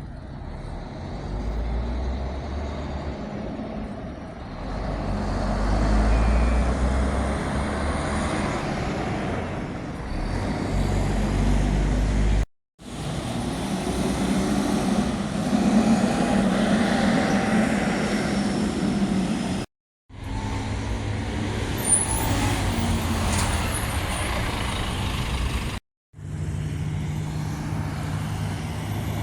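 Buses driving past in city traffic, their diesel engines rumbling and growing louder as they approach, in four short clips cut together with abrupt breaks between them.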